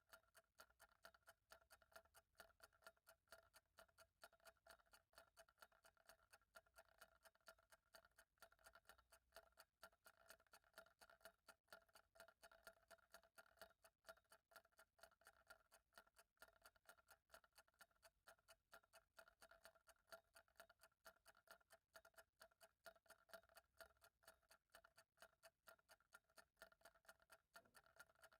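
Faint, steady clock ticking: quick, even ticks, several a second, each with a light ringing tone.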